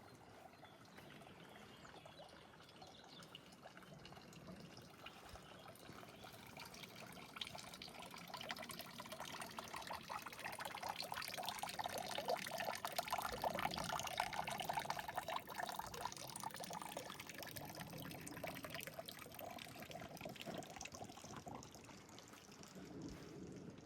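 Water running and splashing, a steady trickling pour that grows louder to a peak about halfway through and then fades away again.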